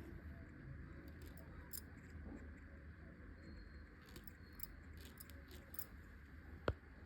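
Faint, irregular ticking and snapping of a twisted cotton thread plucking eyebrow hairs during threading, with one sharper snap near the end, over a low steady hum.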